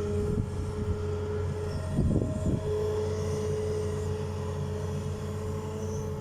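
Hitachi ZX200 hydraulic excavator's diesel engine running steadily under working load, with a steady high whine over the engine drone. A short, louder jumble of noise comes about two seconds in.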